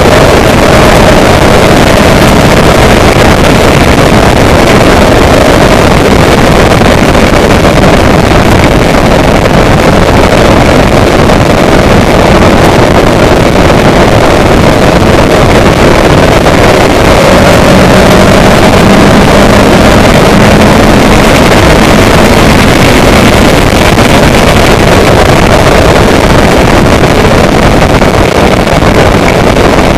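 A vehicle under way: a steady, very loud engine drone whose pitch drifts slowly, mixed with heavy wind noise on the microphone.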